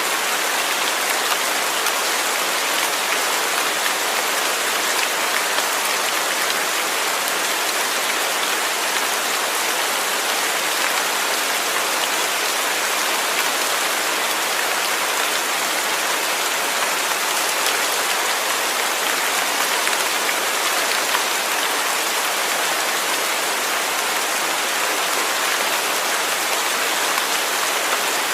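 Steady rain falling, an even, continuous hiss of many drops with no change in strength.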